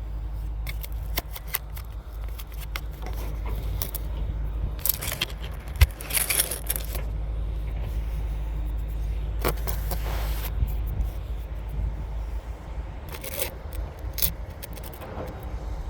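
Cat D9L crawler bulldozer at work: a deep, steady diesel engine drone with frequent metallic clanks and rattles from the tracks and blade. A few short scraping bursts, and one sharp knock about six seconds in.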